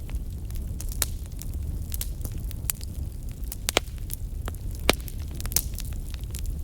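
Wood fire burning in a fireplace, with a steady low rumble and irregular sharp crackles and pops. The loudest pops come about four and five seconds in.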